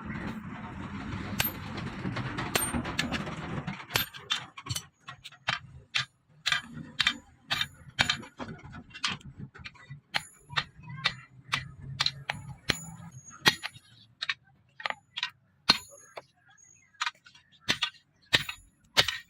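Hammer blows ringing on steel, sharp metallic strikes coming unevenly about one or two a second. They follow a few seconds of dense rushing noise at the start.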